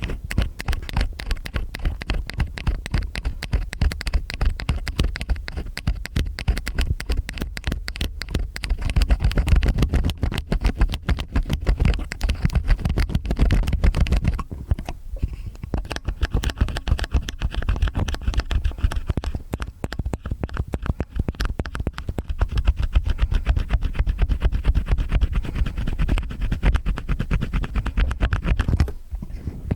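Stainless steel ear picks scraping and rubbing in both ears at once: close, dense scratching over a deep rumble, pausing briefly about halfway through and again near the end.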